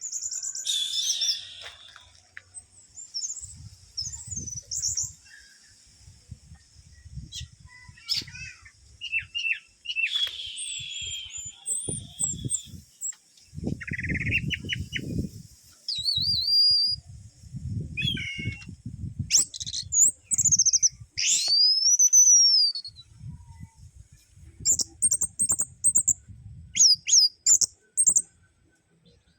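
Orange-headed thrush (anis merah) singing a varied song of short whistled and chirping phrases, some sweeping up and down in pitch, with bouts of low rustling between and under the phrases.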